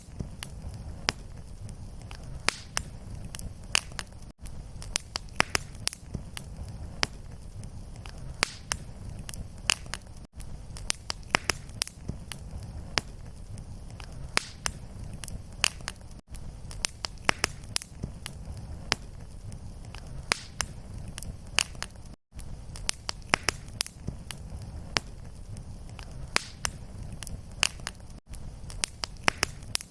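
Fireplace fire burning: a steady low rumble with dense, irregular sharp crackles and pops. A brief dropout about every six seconds marks the seam where the looped fire recording restarts.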